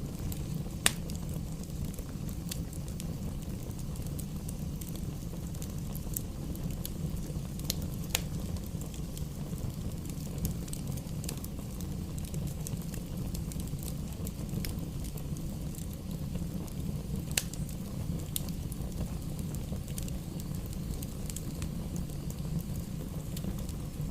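Bonfire burning and crackling: a steady low rumble of flames with scattered sharp pops, a few of them louder than the rest.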